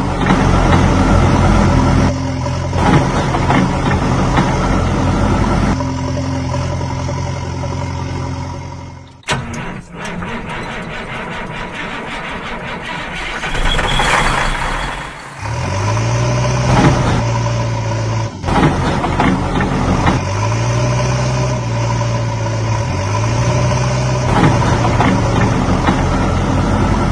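Heavy vehicle engine running, its pitch stepping up and down. It drops away about nine seconds in, a rougher noisy stretch follows, and the engine comes back about six seconds later.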